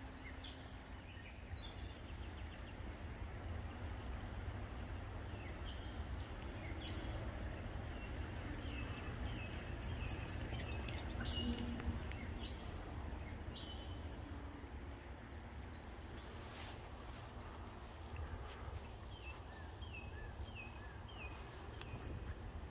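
Small birds calling in runs of short, high, down-slurred chirps over a steady low rumble, with a few sharp clicks about halfway through.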